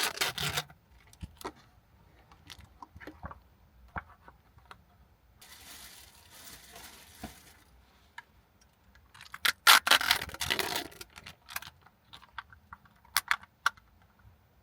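Close handling noises: scattered clicks and rustling, with two louder rustling scrapes, one at the start and one about ten seconds in, and a softer rustle around six seconds in.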